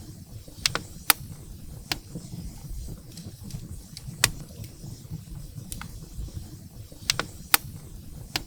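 Firewood burning in a fireplace, crackling with about seven sharp, irregular pops over a low rumble. The loudest pops come about a second in, about four seconds in, and twice near the end.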